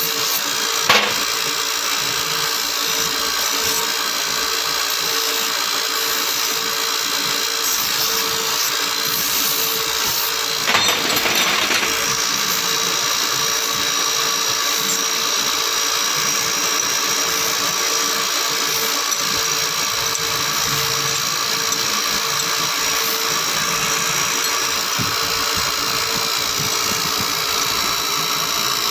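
Factory machinery running steadily with a constant hum and a high whine, a sharp clank about a second in and a short burst of grinding noise around eleven seconds in.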